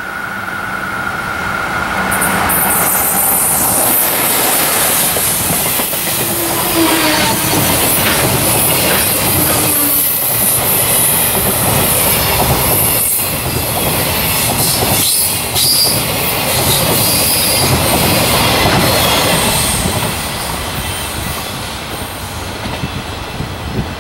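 Container freight train passing close by on a curve: the wagons' wheels run and clatter over the rails with a high, hissing squeal. It builds over the first few seconds, stays loud, then eases off near the end as the train moves away.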